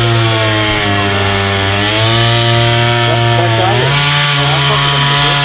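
Petrol chainsaw running at high revs while cutting wood. About four seconds in, its engine note jumps to a higher pitch and holds there.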